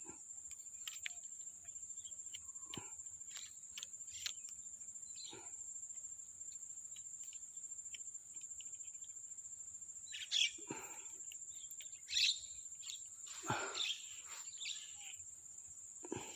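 Insects chirring in one steady, high, finely pulsing note. A few brief chirps break in over it, most strongly about ten to fourteen seconds in.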